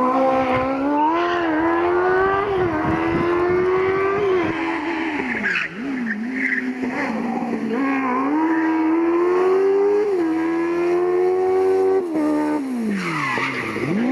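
Kawasaki Ninja motorcycle engine in a Smart Fortwo rally car, revving high and pulling through the gears, its pitch climbing and then dropping sharply on lifts several times, most deeply about halfway and near the end.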